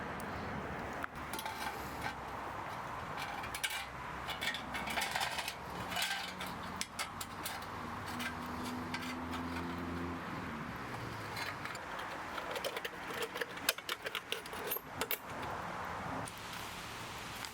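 Metal utensils clinking, tapping and scraping in a series of light, irregular clicks over a steady low background.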